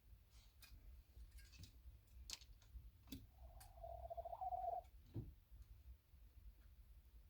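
Near silence with scattered faint clicks, broken about three seconds in by one drawn-out animal call lasting about a second and a half.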